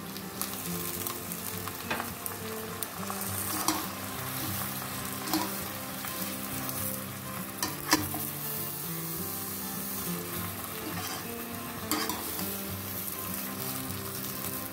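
Chopped tomatoes sizzling in hot oil and butter in an aluminium pan as they are stirred in with a metal slotted spoon, which knocks sharply against the pan about five times.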